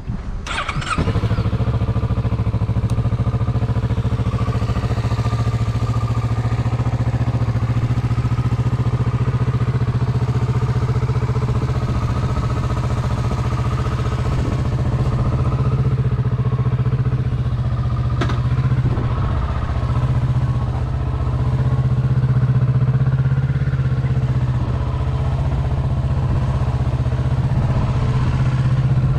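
Kawasaki Z650's parallel-twin engine starting on the electric starter and catching about a second in, then idling steadily.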